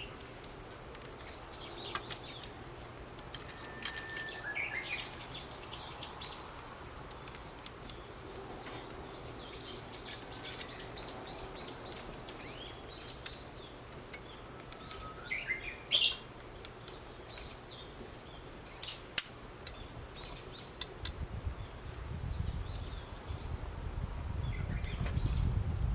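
Wild birds chirping and calling in short phrases, one a quick series of repeated notes, over a steady outdoor background, with a few sharp clicks and pops near the middle and a low rustling rumble building toward the end.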